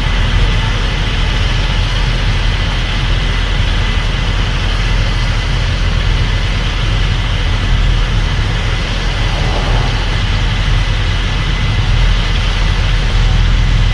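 Case IH Axial-Flow 8250 combine running steadily: a deep engine drone under an even mechanical hiss, with a thin steady whine.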